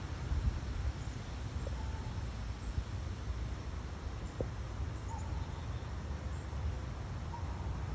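Steady low rumble of wind buffeting the microphone, with a few faint, short bird chirps.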